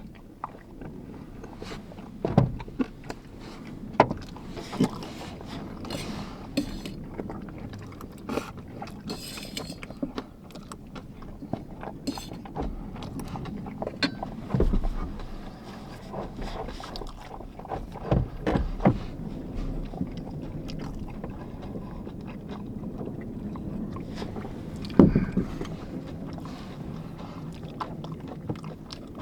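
Steady low rumble of strong wind buffeting the van, with scattered knocks, clicks and small scrapes of things being handled close by; the loudest knock comes near the end.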